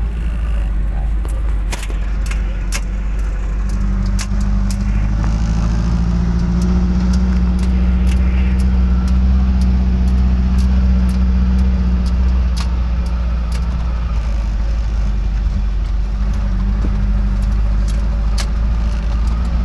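Suzuki Jimny's engine running under load as it is driven off-road, rising in pitch about a quarter of the way in, holding, then easing off past the middle. Sharp knocks and rattles come through it throughout.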